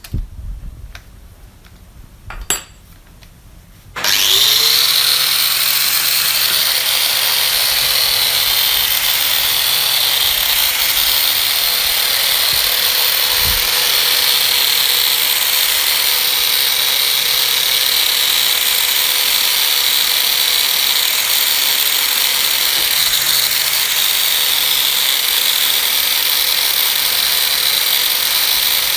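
A few knocks, then an electric power tool switched on about four seconds in: its motor spins up with a short rising whine and then runs steadily at constant speed.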